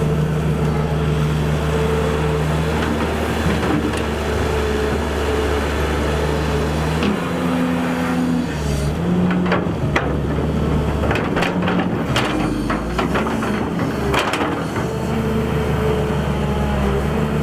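Excavator's diesel engine running steadily, its pitch changing several times from about the middle as the machine works. Over a few seconds in the second half come a string of sharp metallic clanks and knocks.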